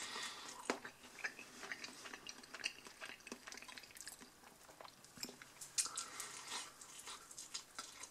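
A person quietly chewing fried chicken wing, with scattered faint clicks and mouth smacks.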